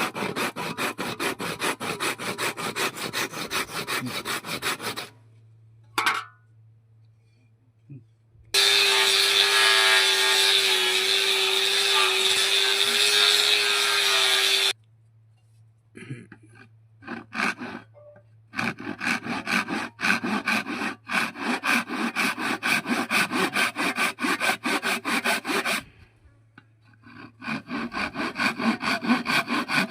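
Wood being hand-sawn in quick, even back-and-forth strokes, in three spells. Between the first and second spells a motorised tool runs steadily for about six seconds with a held hum, louder than the sawing.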